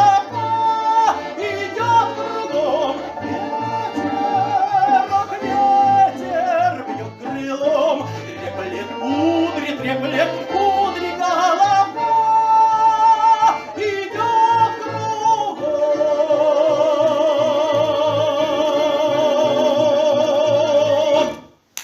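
Folk ensemble finishing a song: voices with instrumental accompaniment over a stepping bass line. About three-quarters of the way through they settle on a long final note with vibrato, which cuts off sharply near the end.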